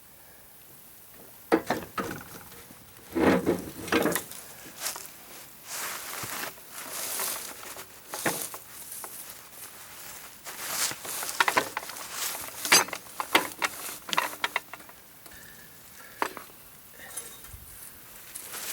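Irregular clanks, knocks and scrapes of a jack and metal gear being handled and repositioned to lift the wagon higher. The clatter starts about a second and a half in, with heavier knocks around three to four seconds in.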